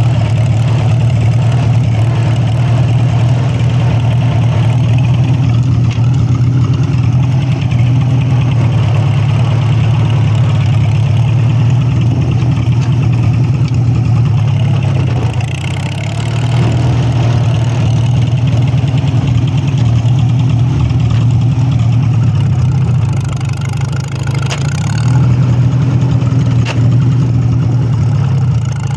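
Farmall H tractor's four-cylinder engine running steadily, its note easing off briefly about halfway through and again near the end.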